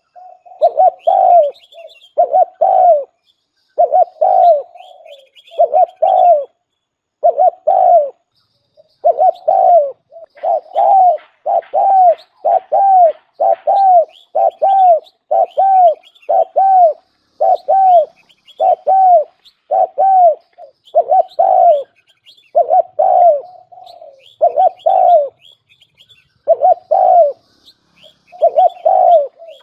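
Spotted dove cooing: a decoy bird's call, short falling coos repeated about once a second with a few brief pauses. Faint high chirps sit over the coos.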